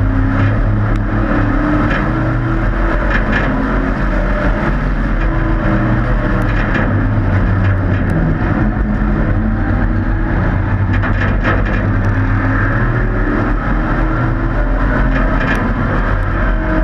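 Several hobby-class race trucks' engines running laps in a heat race: a loud, steady drone whose pitch drifts up and down as the trucks lap.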